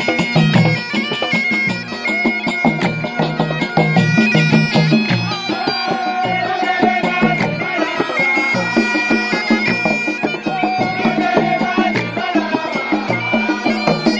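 Traditional Gulf sea-arts (fann al-bahr) folk music played by a troupe: a reedy wind instrument holds long notes over a steady drum beat.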